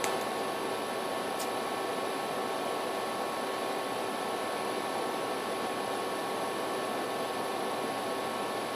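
Steady background hiss with a faint, even hum and no speech, like room noise or a fan in a small room.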